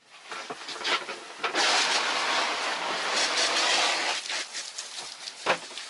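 Water gushing hard from a dock water hose and splashing, loudest for a few seconds in the middle, then running on more softly.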